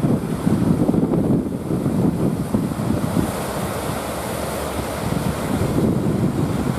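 Strong wind buffeting the microphone in uneven gusts over the rush of ocean surf.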